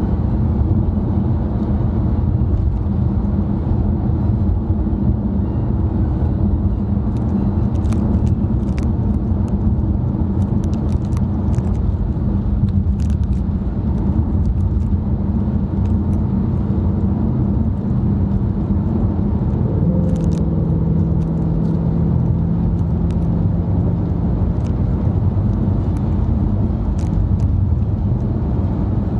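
Car cabin noise while driving: steady low tyre and engine rumble. A steady hum rises above the rumble about twenty seconds in and fades about five seconds later.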